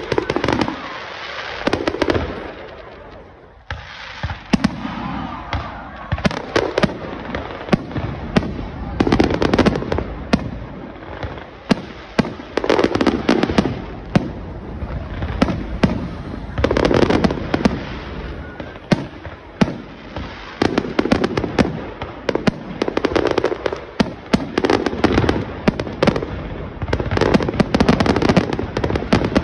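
Aerial fireworks display: shells bursting one after another with sharp bangs and crackling, the bursts coming thicker and closer together in the second half.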